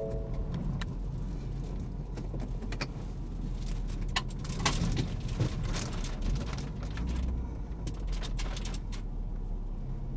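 A car driving along, with a steady low engine and road rumble and scattered small clicks and rattles.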